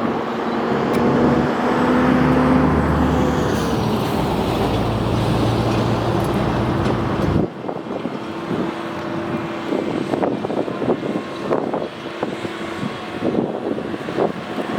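Rham DT32 32-ton battery-electric dump truck running, a steady electric-drive hum with several tones under a loud rush of noise. About halfway through the sound cuts abruptly to a quieter passage with one steady tone and many scattered clicks and knocks.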